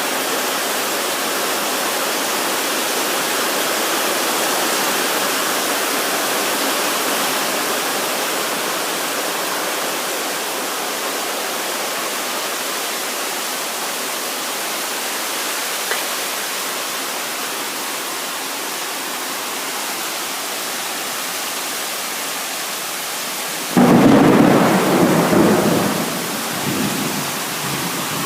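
Heavy rain falling steadily, with a sudden loud clap of thunder near the end that rumbles on for a couple of seconds.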